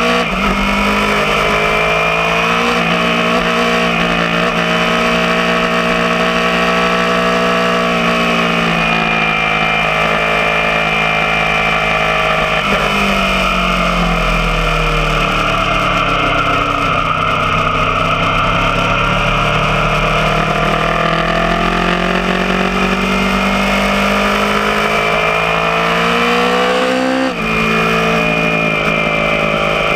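Aprilia Tuono motorcycle engine running hard on track, its revs climbing and falling with throttle and gear changes. There is a long slow dip and climb in the middle and a sudden sharp drop in revs near the end.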